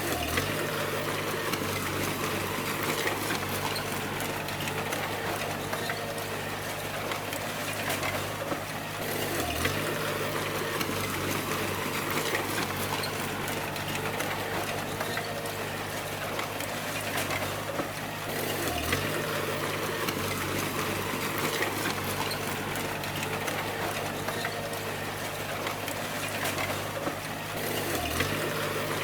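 Bulldozer's diesel engine running steadily under a dense clatter of tracks and machinery. The engine note dips sharply for a moment and recovers about every nine seconds.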